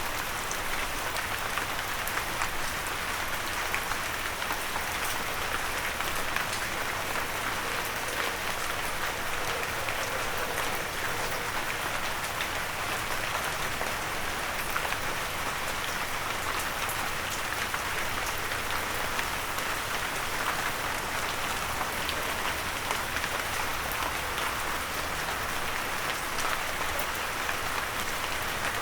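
Steady rain falling on a windowsill, a constant rush of water dotted with many small individual drop ticks.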